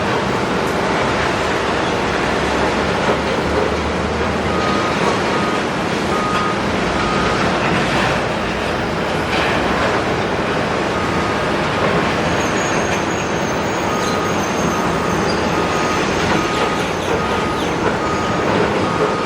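Large Doosan excavator at work on building demolition: a loud, steady mass of machine and demolition noise. A machine alarm sounds over it in runs of short beeps, a little more than one a second, with a pause midway.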